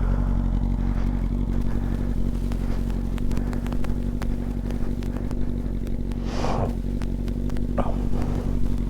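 Yamaha R6 inline-four engine idling steadily at constant low revs, with scattered faint clicks.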